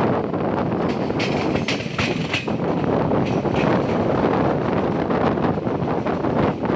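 Indian Railways passenger coach running along the track, heard from its open door: a steady rumble of wheels on rails, with a few short, sharper high-pitched sounds between about one and two and a half seconds in.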